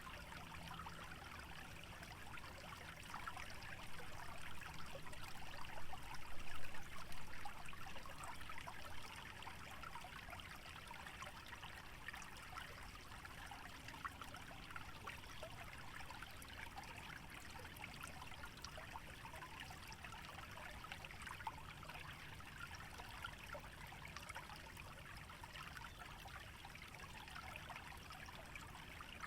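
A shallow stream trickling and burbling steadily over a wetland bed. It grows briefly louder a few seconds in, then settles back.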